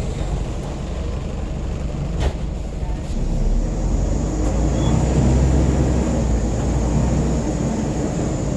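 Scania N94UB single-decker bus heard from inside: its diesel engine running as the bus drives, growing louder from about three seconds in. A single sharp click a little over two seconds in.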